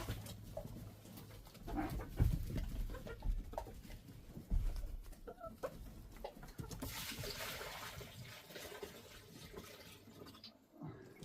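Backyard chickens clucking in short, scattered calls, with a few dull knocks and a stretch of rustling near the middle.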